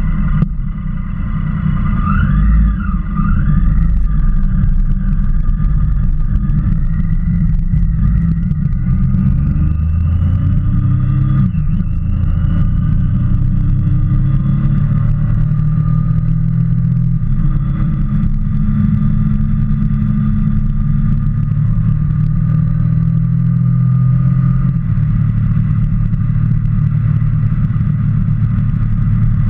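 Motorcycle engine running on the move. The revs rise and fall a few times about two to three seconds in, then it settles to a steady drone.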